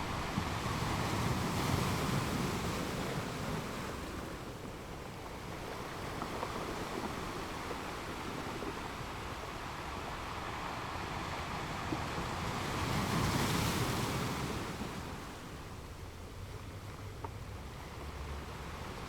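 Ocean waves breaking on a beach: a steady wash of surf with two waves swelling and fading, the stronger about two-thirds of the way through.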